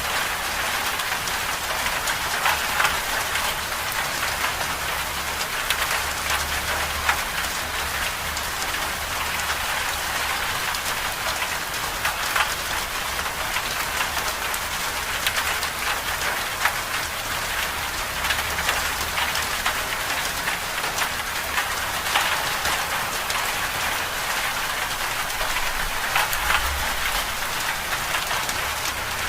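Winter-storm ambience of steady rain: a dense patter of drops over an even hiss, with a low rumble underneath that swells and fades.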